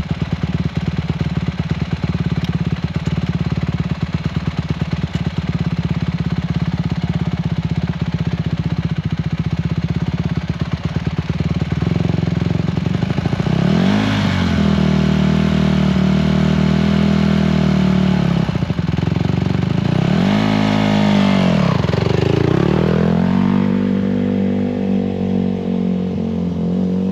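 Honda motorcycle engine idling with a steady low pulse, then twice revving up and dropping back in pitch as the bike pulls away and slows in stop-and-start practice, before settling to a steady tone near the end.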